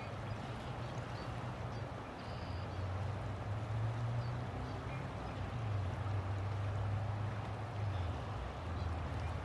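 River water flowing steadily, with a low rumble underneath that swells and fades.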